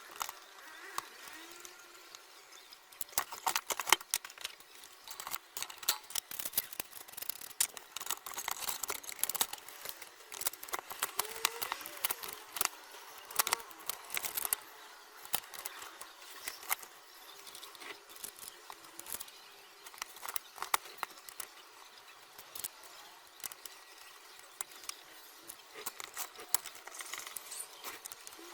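Irregular light clicks, taps and scrapes of hand tools and small metal parts being handled during work on an amplifier, in quick clusters with short pauses between.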